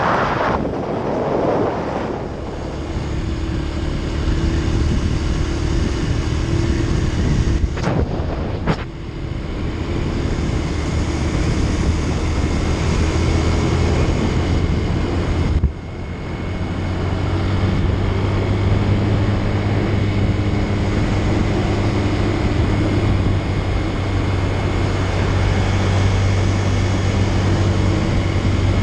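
Motorcycle engine running at road speed with wind noise on the microphone. Twice, about eight and sixteen seconds in, the engine note drops out briefly and then builds again.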